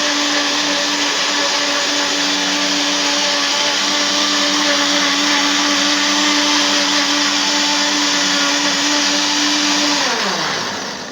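Electric blender grinding coconut to make coconut milk. The motor runs at a steady high speed with a constant hum, then winds down near the end.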